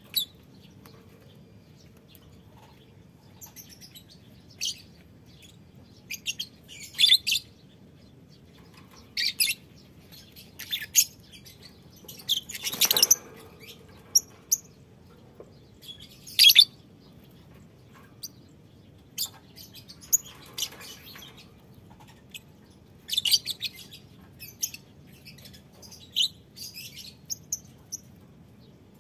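Lovebirds in a colony breeding cage chirping: short, sharp, high-pitched calls in scattered clusters every few seconds, with one longer, fuller burst near the middle, over a faint steady background hum.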